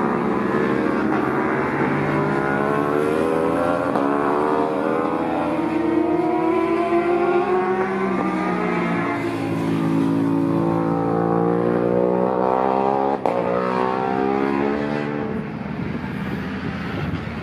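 Several race motorcycles running close together past the trackside, their engines rising and falling in pitch as the riders accelerate and shift. A single sharp click comes about 13 seconds in.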